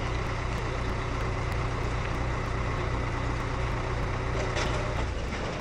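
A steady low rumble of a large motor running, which stops about five seconds in.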